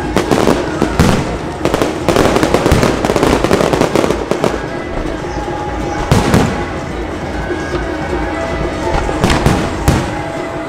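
Fireworks going off in rapid bangs and crackles, densest in the first few seconds, with a single loud bang about six seconds in and another cluster near the end. Music plays underneath.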